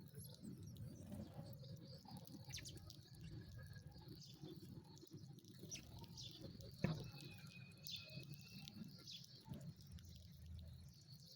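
Faint, sparse sparrow chirps, with a single sharp click about seven seconds in.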